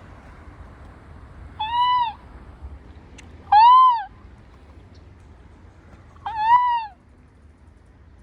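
A bird calling overhead: three loud, clear calls, each about half a second long, rising then falling in pitch, spaced about two seconds apart.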